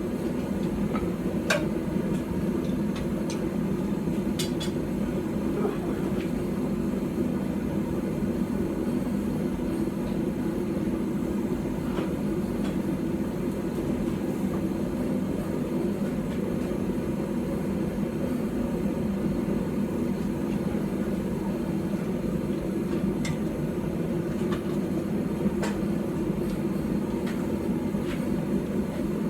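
Steady rumbling roar of a running forge fire, with a few faint light metallic clicks.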